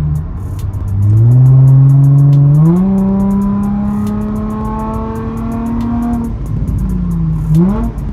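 Infiniti G35's 3.5-litre V6 running with its muffler and resonator removed, the straight exhaust note climbing in pitch under acceleration over the first three seconds, holding steady, then falling away about six seconds in before a short blip near the end.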